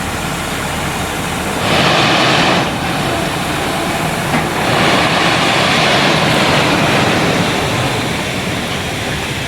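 Tipper truck running as it pulls forward after dumping its load of ballast, with a loud rushing noise that swells twice.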